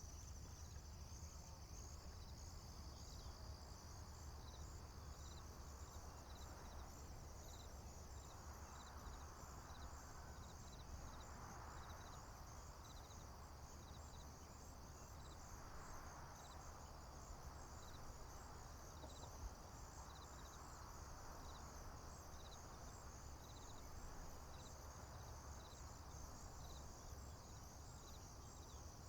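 Faint, steady high-pitched chorus of crickets and other insects, with a short chirp repeating about once a second, over a soft low rumble.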